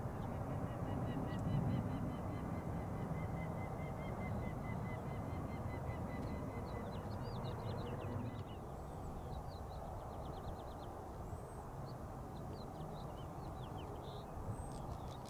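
Wild birds calling outdoors over a steady low rumble: a long, rapid series of repeated notes for about the first eight seconds, then quicker chirps and short slurred notes.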